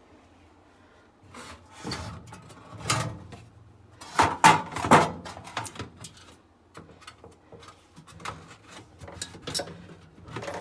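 A plastic panel and parts being handled and fitted inside a refrigerator's freezer compartment: irregular knocks, clatter and rubbing, with two loud knocks about four to five seconds in.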